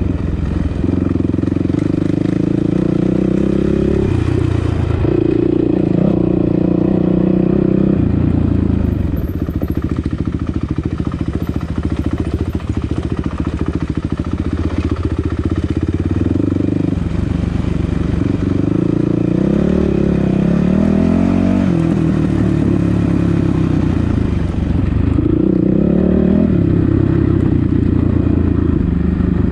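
Dirt bike engine running steadily under load, its revs rising and falling with throttle changes several times as the bike rides a rocky trail.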